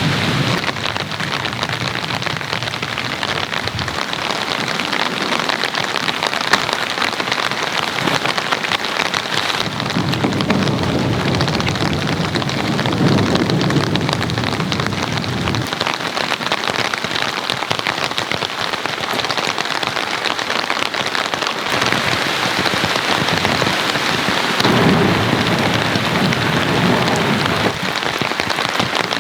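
Steady rain falling on a surface, a dense patter of drops, with two low rumbling swells, one about a third of the way in and one near the end.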